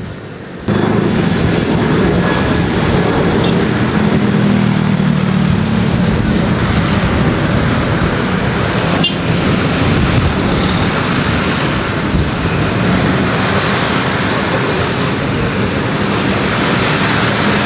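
Loud, steady engine noise from a vehicle that starts abruptly under a second in and holds, with a low hum running through it.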